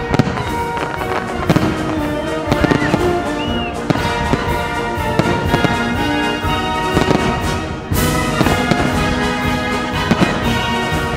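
Aerial fireworks shells bursting and crackling in quick succession over instrumental music, with a burst of louder reports about eight seconds in.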